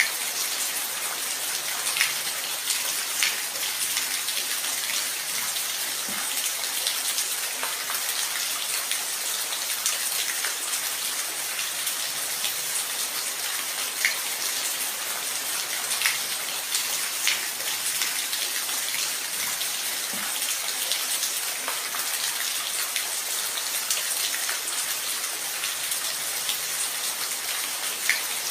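Steady rain falling, an even hiss with individual drops ticking close by now and then.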